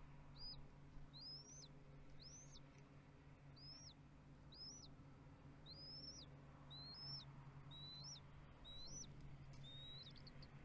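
Bald eagle giving a series of about eleven thin, high whistled chirps, roughly one a second, each note rising and then dropping off sharply. A steady low hum runs underneath.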